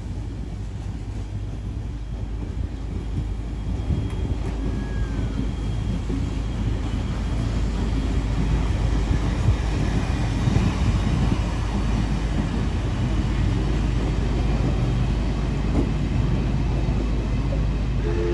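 Carriages of a steam-hauled train rolling past, wheels running on the rails in a steady rumble that grows louder partway through.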